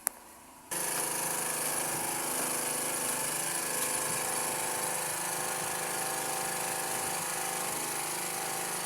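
A click, then less than a second later an electric water pump motor starts and runs with a steady hum and whine.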